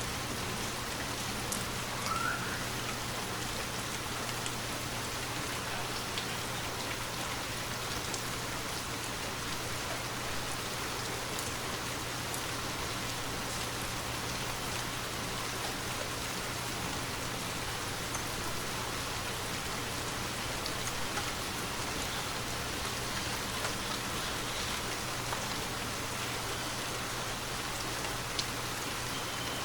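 Steady rainfall, an even hiss with scattered sharper drop ticks through it.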